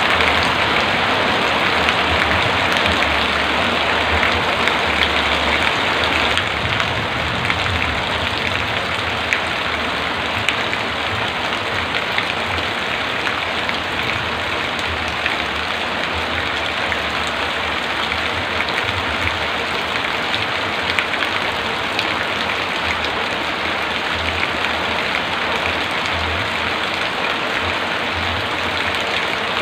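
Heavy rain falling steadily: a dense, even hiss with fine scattered ticks of drops.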